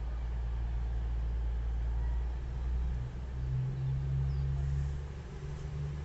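Diesel train engine running with a steady low rumble; a deeper engine note comes in about three seconds in.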